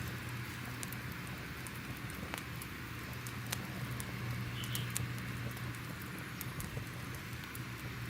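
Crackling fire ambience: a steady hiss with irregular sharp pops every second or so, over a low steady drone.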